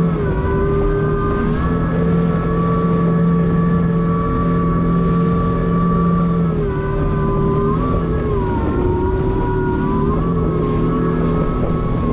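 Jet ski engine running at a steady speed over a rushing noise, its note dipping slightly and recovering a few times.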